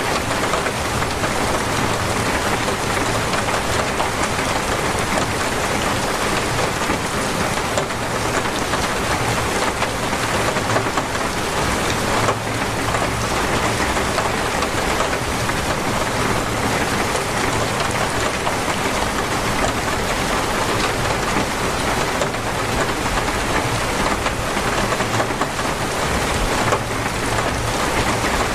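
Heavy rain falling steadily on surfaces, a dense unbroken downpour.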